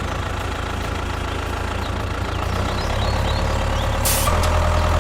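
Tractor engine idling steadily with a low, even hum, and a short hiss about four seconds in.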